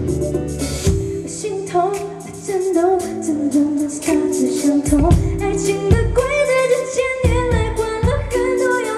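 Live pop band music with a woman singing a wavering melody over sustained keyboard and bass notes and a steady drum beat.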